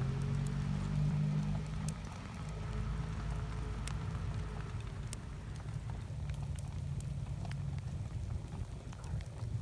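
Firewood burning in a campfire in light drizzle: scattered sharp crackles and drips over a low steady rumble.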